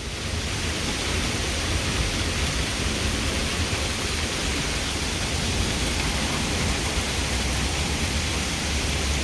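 Heavy thunderstorm rain pouring down as a steady, loud hiss, with wind buffeting the phone's microphone as a low rumble.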